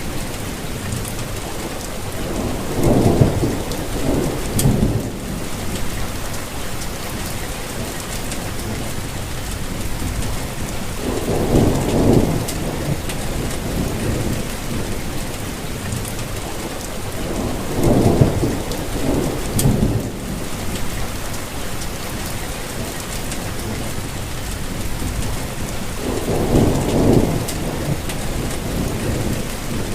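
Steady rainfall hissing evenly, with low rumbles swelling up and fading four times, each lasting a second or two.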